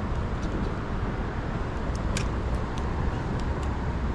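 Wind buffeting the microphone as a steady low rumble, with a few faint sharp ticks in the second half.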